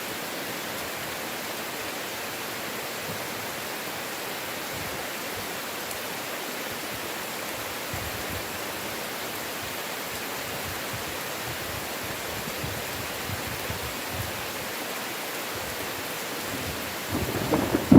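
Steady heavy rain hissing evenly. Near the end a thunder rumble breaks in and quickly grows loud.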